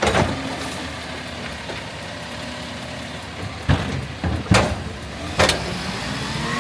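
Garbage truck's engine idling steadily, with a sharp bang at the start and four more bangs in the middle.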